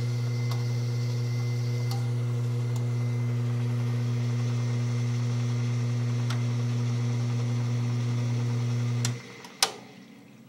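Metrowealth WP5B countertop dishwasher's pump motor humming steadily. It cuts off abruptly about nine seconds in, followed by a single sharp click.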